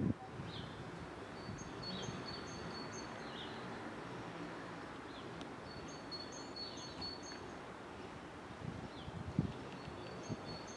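A small songbird singing three short phrases of high, quick chirps, over a faint steady outdoor background noise.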